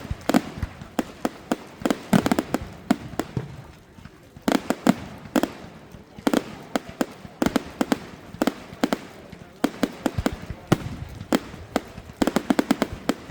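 Fireworks display: an irregular run of sharp bangs and cracks, bunching into quick clusters about four and a half seconds in and again near the end.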